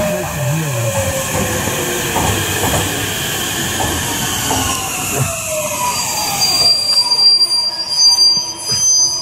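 Meitetsu electric trains moving through a station. A whine falls steadily in pitch over the first five seconds, with scattered clacks of wheels over rail joints. From about two-thirds of the way in, a high, steady wheel squeal rings out.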